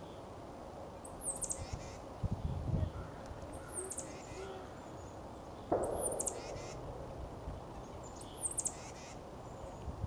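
Wild birds calling: a short, harsh call comes suddenly about six seconds in, over high, thin calls that repeat every couple of seconds.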